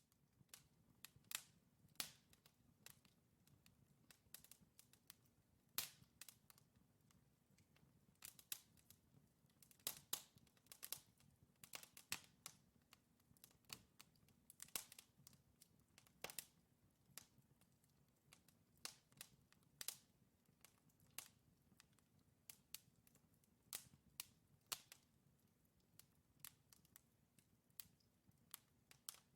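Wood fire burning in a fireplace: logs crackling and popping in irregular sharp snaps, several a second at times, over a faint low rumble of the flames.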